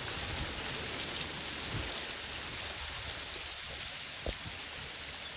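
Steady hiss of heavy rain with a low rumble underneath, and one sharp knock about four seconds in.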